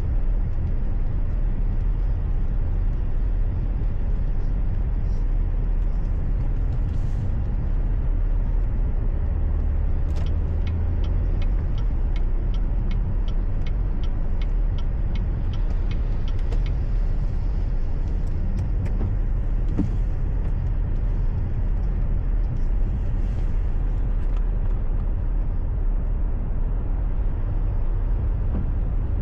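Steady low rumble of a car driving, with a run of quick, regular ticks for several seconds midway.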